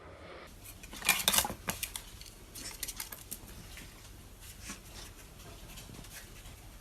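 A quick run of sharp clicks and clatters, like small hard objects knocking together, about a second in, followed by a few scattered fainter ticks.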